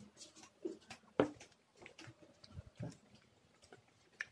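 Close-up eating sounds of a person chewing rice eaten by hand: scattered wet mouth clicks and smacks, the loudest about a second in.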